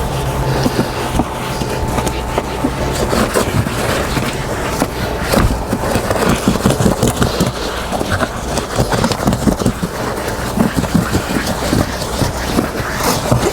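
Boat seat cushion being scrubbed: rapid, irregular scratching and rubbing. A steady low drone runs under the first few seconds.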